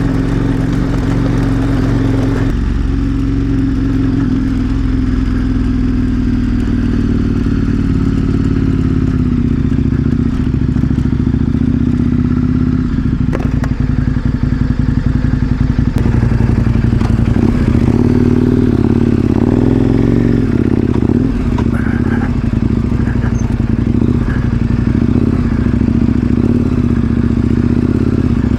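KTM 1090 Adventure R's V-twin engine running under way on a ride, its note steady for stretches and shifting in pitch a few times with throttle and gear changes.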